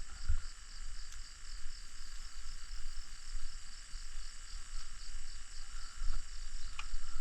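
Outdoor ambience: a steady high insect chirring that pulses a few times a second, over a low rumble, with a couple of sharp clicks near the end.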